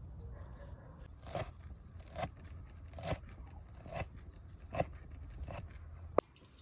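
Food being cut with a blade: crunchy cutting strokes at a steady pace of about one a second, then a sharp click near the end.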